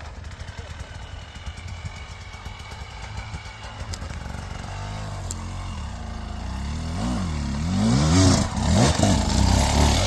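Dirt bike engine running low, then revving up and down repeatedly, louder from about seven seconds in as the throttle is worked.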